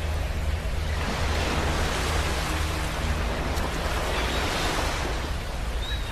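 Ocean waves breaking and washing up a beach, a steady surf with a low rumble underneath. One wave surges in about a second in and another about four seconds in.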